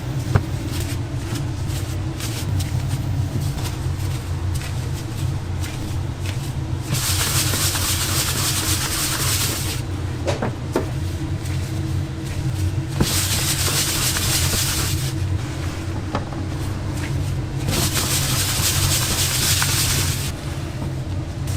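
Steady low machine hum with three stretches of loud hissing, each lasting two to three seconds, and a few sharp clicks.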